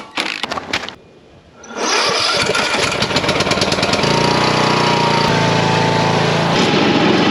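Small engine catching about two seconds in, running fast and uneven at first, then settling into a steady run from about four seconds in.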